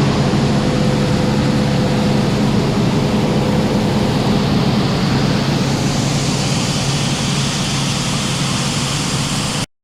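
Heavy diesel farm machinery running steadily at harvest: a low engine hum under a wide, even rushing noise that grows a little brighter about halfway through.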